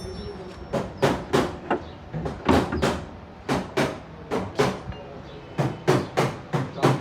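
Hammer blows on metal, irregular and often in quick pairs.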